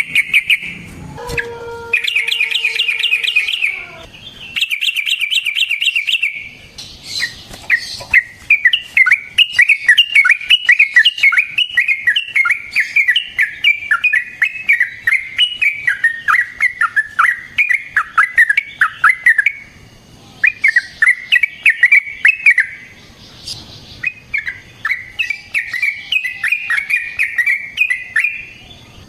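Yellow-vented bulbul (trucukan) singing long, fast chattering phrases of rapid notes, with short pauses between phrases.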